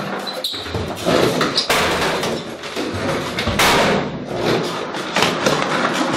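A loud, continuous run of bangs, thuds and clatter.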